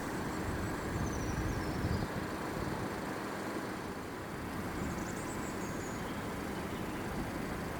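Road traffic running past: a steady rumble of engines and tyres, with a couple of faint high chirps over it.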